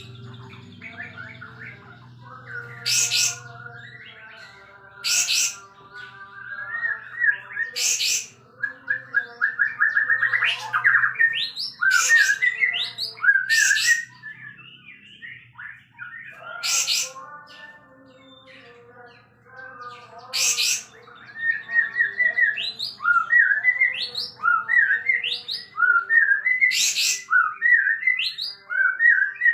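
Caged kapas tembak (triller) singing loudly: fast runs of rising trilled notes broken by about seven short, harsh, explosive notes.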